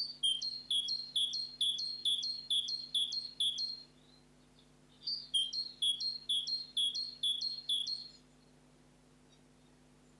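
A songbird singing two phrases, each a quick run of a repeated two-note motif, about three notes a second, with a pause of about a second between the phrases.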